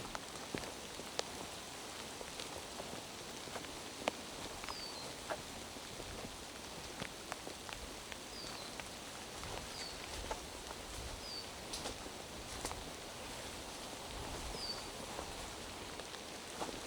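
Steady rain falling in a forest, with scattered drops ticking close by. A bird gives a short, high, falling call note about six times.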